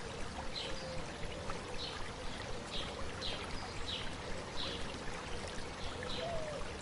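Stream babbling steadily, with a bird repeating a short, high chirp about once or twice a second.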